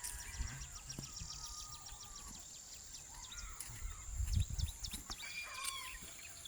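Wild birds calling: a rapid run of short high chips in the first couple of seconds and a pitched, bending call about five seconds in, over a steady high-pitched drone. Low rumbles about four seconds in.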